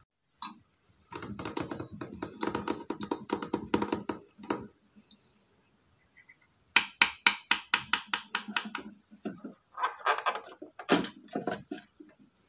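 Rapid runs of small, sharp clicks and taps from a mini toy vending machine being worked by hand: two bursts of a few seconds each, then a few scattered taps near the end.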